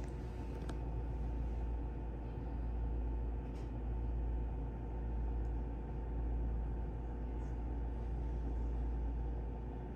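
Steady low rumble of background room noise with a faint electrical hum, and a couple of faint clicks.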